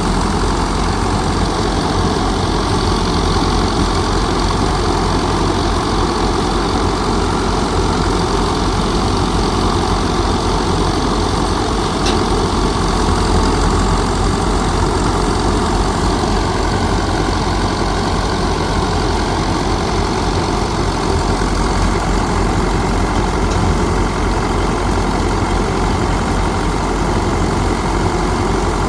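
An engine running steadily at an even speed, unchanging throughout.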